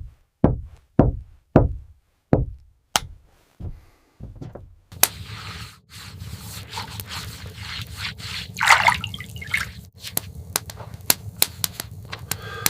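A series of about eight dull knocks, roughly two a second, then steady rain with many scattered dripping ticks and a brief louder rush of water.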